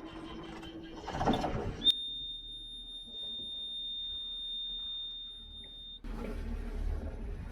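Sailboat's engine-panel alarm buzzer sounds one steady high beep for about four seconds after the ignition is switched on. It cuts off suddenly as the inboard engine starts and settles into a low, steady run. Just before the beep there is a short burst of handling clatter.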